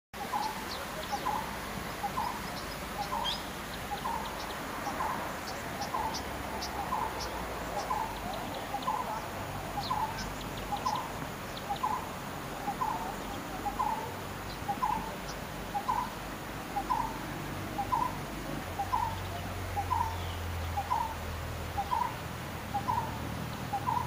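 Birds calling: one bird repeats a short, clear note about once a second, steadily, while other birds give brief high chirps.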